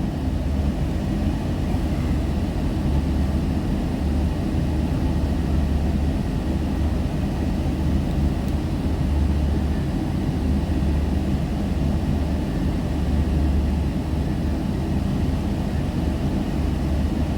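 Scania K320UB diesel bus running: a steady low engine drone with road rumble that holds evenly throughout.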